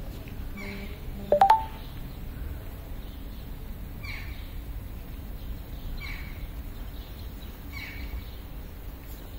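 A bird calls again and again, a short falling call about every two seconds, over a low steady city rumble. About a second and a half in, a brief, loud electronic beep cuts through.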